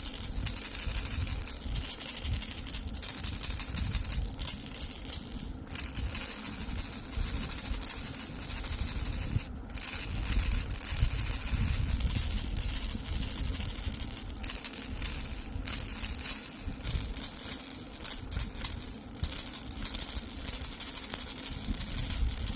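Baby rattle being shaken continuously, a dense rapid patter of beads, with two brief pauses about five and nine and a half seconds in.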